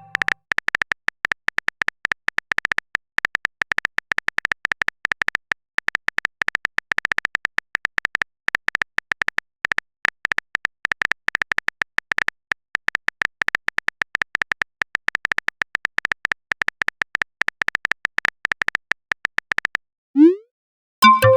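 Rapid, irregular clicking of a phone-keyboard typing sound effect, running for about twenty seconds. It stops, and then comes a short rising swoosh and a brief message-notification chime near the end.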